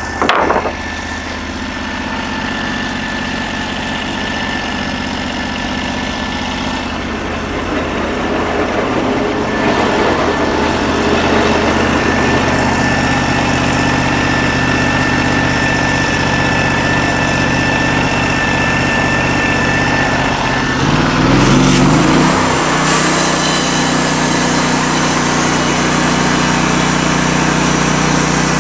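The 16 hp engine of a Norwood LM29 portable sawmill running steadily, with a brief loud knock right at the start. About three-quarters of the way through it revs up and holds at a higher speed.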